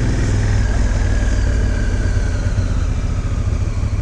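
Honda Africa Twin's parallel-twin engine running steadily at low revs.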